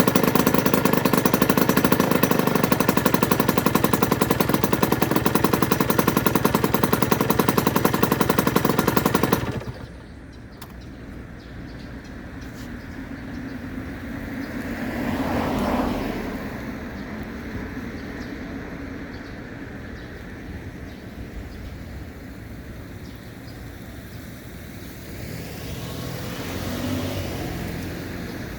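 Aprilia RS125's single-cylinder two-stroke engine running steadily with a rapid, even beat, then cutting off abruptly about a third of the way in. After that, only a quieter background rush that swells twice.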